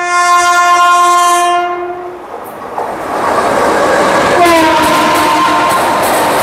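WAP-5 electric locomotive's horn sounding a long steady blast that ends about two seconds in, then the express train rushing past at speed with the clatter of its wheels on the track. A second, shorter horn blast comes about four seconds in, its pitch dropping as the locomotive passes.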